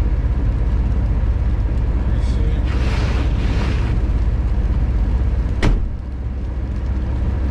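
Car running, heard from inside the cabin as a steady low rumble, with a hissing swell about three seconds in and a single sharp click near the six-second mark.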